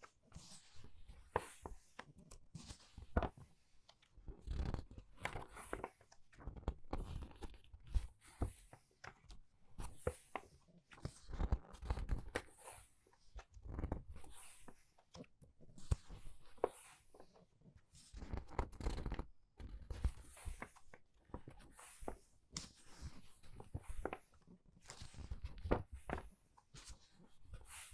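Pages of a book being turned quickly one after another. Each turn is a short papery swish and rustle, coming about every second or two.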